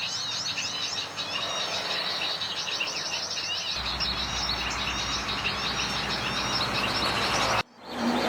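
A dense chorus of small birds chirping and trilling continuously, many calls overlapping, over a steady background hiss. A low hum joins about halfway through, and the sound cuts out for a moment near the end.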